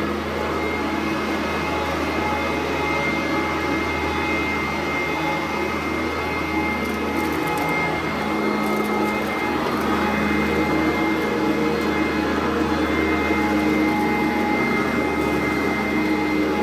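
Sanitaire SC899 commercial upright vacuum cleaner running steadily, its motor giving a steady whine over the rush of air.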